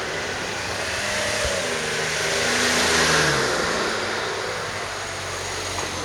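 A car passing close by: its tyre and engine noise grows, peaks about halfway through with the pitch dropping as it goes past, then fades away.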